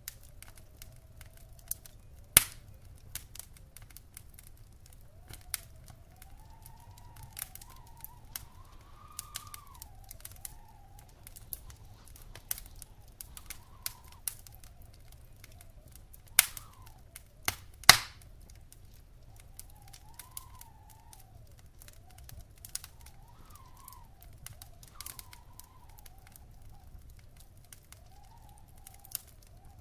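Wood fire crackling in a fireplace: a steady run of small snaps, with loud pops about two seconds in and twice more past the middle. A faint wavering whistle rises and falls underneath.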